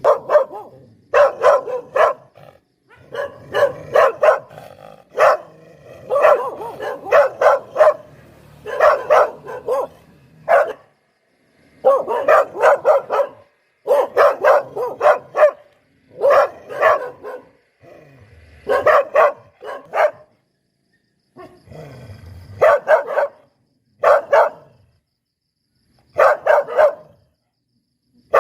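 Poodle barking in quick runs of several sharp barks, with short pauses of a second or two between the runs.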